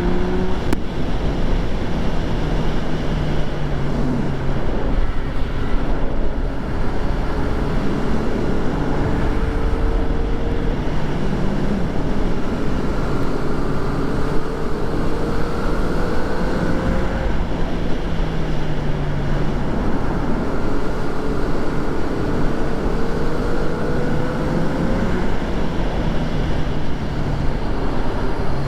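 2014 Yamaha FZ-09's three-cylinder engine on the move. Its pitch climbs slowly for several seconds at a time and then drops back, a few times over. Heavy wind rumble on the microphone runs underneath.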